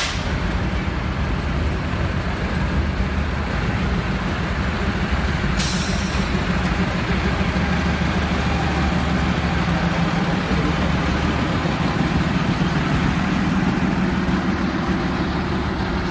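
Neral–Matheran narrow-gauge mini train's diesel locomotive running steadily with a low hum, and a short hiss about six seconds in.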